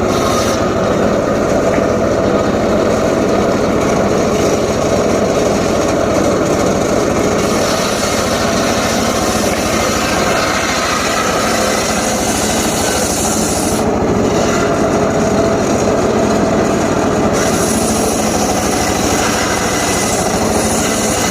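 Homemade circular saw rig cutting teak wood: a continuous rasping saw cut over the steady drone of its driving motor.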